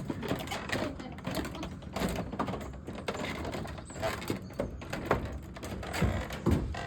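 Irregular knocks, clunks and rustling from someone walking up a ramp, with handling noise from the hand-held phone.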